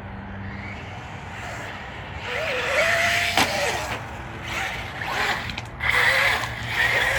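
Arrma Granite Grom Mega 380 brushed 1/18 RC monster truck driving in several short bursts, its motor whine rising and falling with the throttle over a steady background hum.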